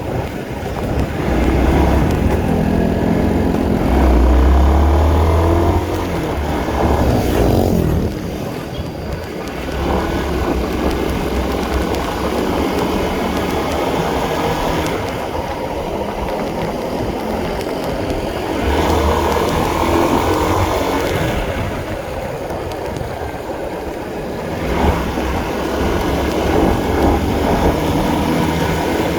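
Honda CB150R motorcycle's single-cylinder engine running under way, its note rising and falling several times as the throttle opens and closes.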